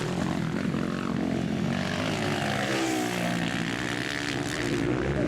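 Several 160cc race motorcycles running on a velocross track, their overlapping engine notes dipping and rising as the riders work the throttle.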